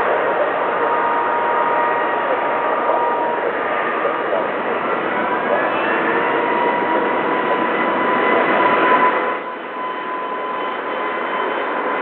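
Airbus A380 jet engines under takeoff power, a loud, steady rush with whining tones, one whine rising in pitch about five seconds in. The noise drops suddenly about nine seconds in.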